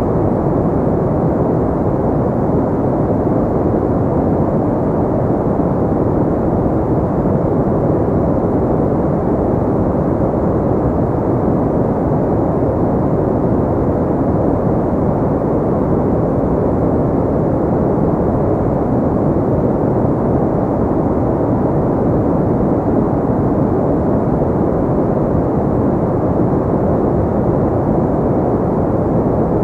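Steady, deep noise for sleep and relaxation, muffled with little treble, so it sounds like a low rumble. It does not change or break at any point.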